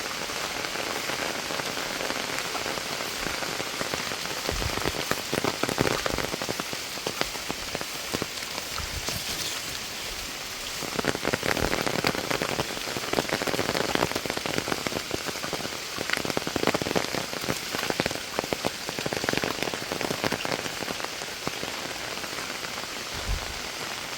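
Steady monsoon rain falling, a dense patter of drops that grows heavier a little before halfway, with a couple of short low thuds.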